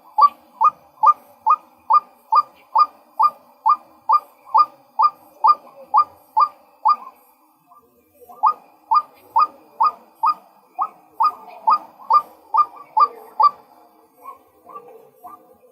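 Male white-breasted waterhen calling: a short note repeated about twice a second in a steady series. The series breaks off for about a second a little before halfway, then resumes, with weaker notes near the end.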